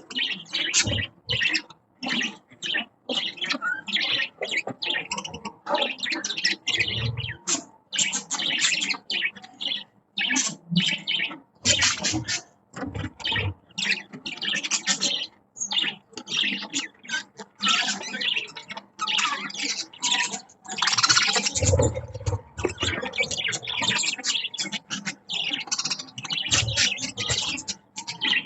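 Budgerigars chirping and chattering nonstop in a rapid, warbling stream, with a few dull low thumps mixed in.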